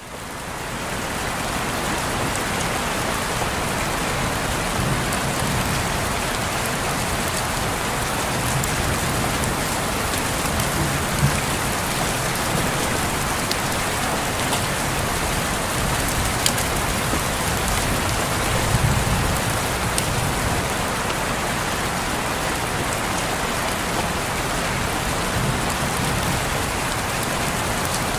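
Steady rain falling and pattering on a window, an even hiss with scattered sharper drop ticks and a faint low rumble now and then. It fades in over the first couple of seconds.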